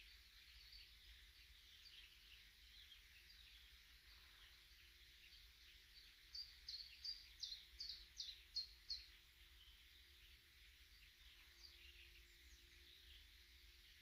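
Faint chorus of many small songbirds chirping and calling. About six seconds in, one bird gives a run of about eight loud, sharp, high notes lasting about three seconds.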